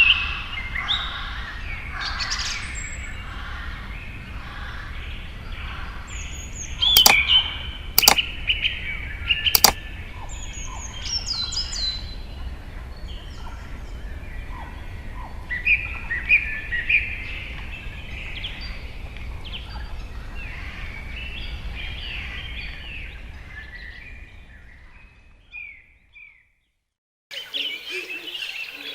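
A chorus of many songbirds chirping and trilling over a steady low rumble, with three sharp clicks about a third of the way in. Near the end the chorus fades out and, after a moment's silence, a different bird chorus begins.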